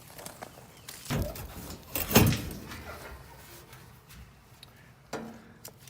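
Sheet-metal access panel on a gas pack unit being handled and pulled off, with two scraping metal clanks about one and two seconds in, the second louder, and a smaller knock near the end.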